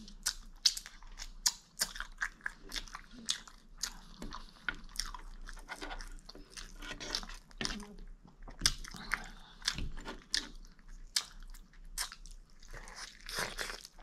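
A person biting into and chewing crispy fried food, with irregular sharp crunches and wet mouth clicks several times a second.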